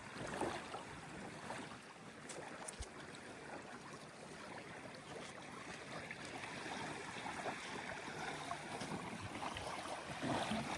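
Steady hiss of wind and water, with a few faint clicks.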